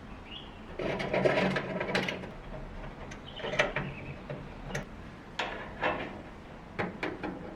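Small metal parts clicking and rattling as they are worked by hand, in irregular bursts: a dense clatter about a second in, another near the middle, then scattered single clicks.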